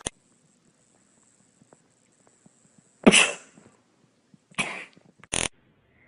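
Three short, sharp cough-like bursts, about three, four and a half and five and a half seconds in; the first is the loudest and the last is the shortest.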